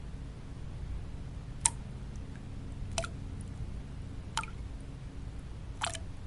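Single water drops falling one at a time: four clear drips, about one and a half seconds apart, over a steady low white-noise bed.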